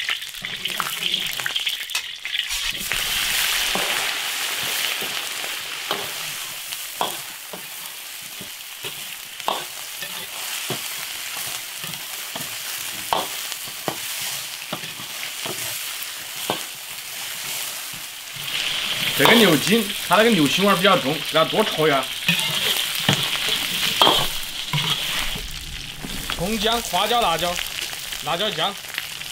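Hot oil sizzling as beef tendon is stir-fried in an iron wok, with the metal ladle clicking and scraping against the pan as it stirs. The sizzle grows louder about two-thirds of the way through.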